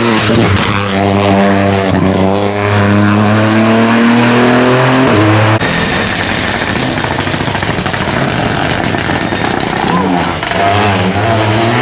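Rally car engine accelerating hard, its pitch climbing steadily, until the sound cuts off abruptly about halfway through. A noisier stretch of car noise follows, and another engine is heard rising in pitch again near the end.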